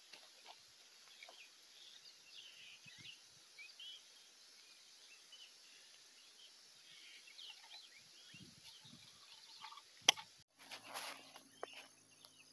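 Quiet outdoor ambience: faint, scattered bird chirps over a steady high hiss, with a single sharp click about ten seconds in.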